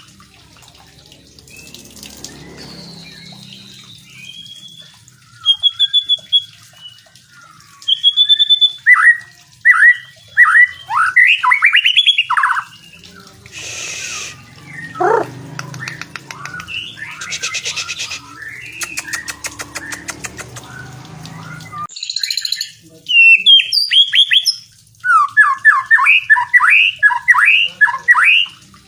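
White-rumped shama singing: fast runs of loud whistled notes, several a second, broken by pauses, with harsh scratchy passages in the middle.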